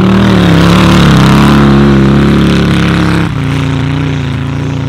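1972 VW Beetle Baja Bug's air-cooled flat-four engine revving hard as the car spins its wheels through loose dirt. The revs and loudness drop suddenly about three seconds in.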